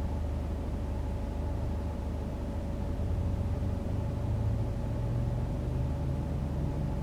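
A car being driven, heard from inside the cabin: a steady low rumble of engine and road noise with a faint steady hum above it.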